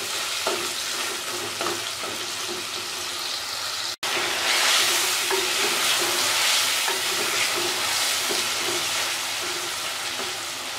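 Chicken pieces sizzling as they fry in oil and onion-tomato masala in a clay pot, stirred with a wooden spoon that scrapes and knocks against the pot. There is a brief dropout about four seconds in, after which the sizzle is louder.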